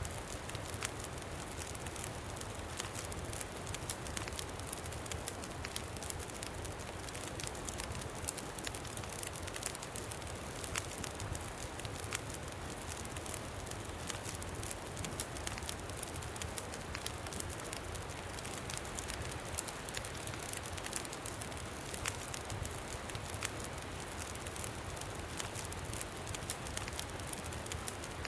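Campfire crackling with frequent small sharp pops, over a steady low rush of wind.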